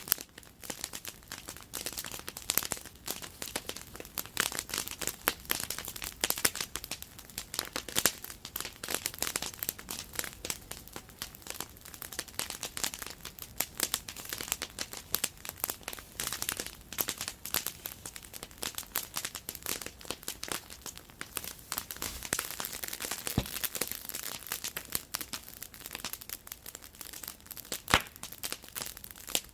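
Wood campfire burning, with a dense, irregular crackle of small snaps and a few sharper, louder pops, one about eight seconds in and one near the end.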